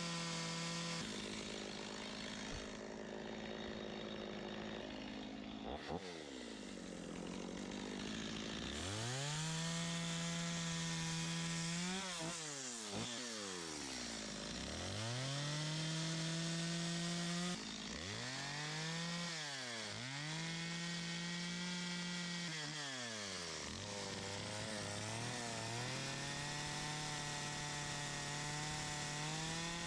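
Stihl MS250 two-stroke chainsaw with a quarter-pitch carving bar, detail-carving wood. It runs at high revs, then repeatedly drops toward idle and climbs back up, several times in the second half.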